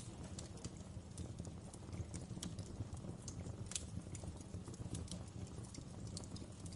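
Wood fire crackling in a fireplace: irregular sharp pops and snaps, several a second at uneven spacing, over a steady low rumble of the burning fire.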